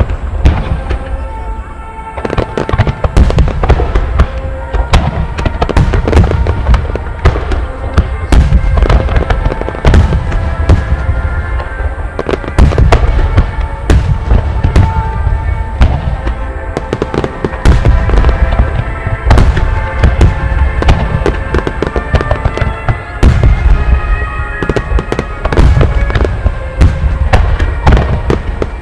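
Fireworks display, many shells bursting in quick succession with deep booms and crackle, over music played along with the show.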